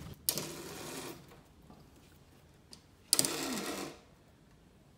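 A curtain being pulled along its rail, its runners rattling in two quick slides: a short one near the start and a louder one about three seconds in.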